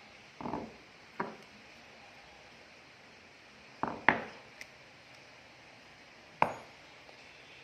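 Sharp metal clanks of metal parts knocked or set down, about five of them a few seconds apart, the loudest a close pair about four seconds in, each ringing briefly over a steady low hiss.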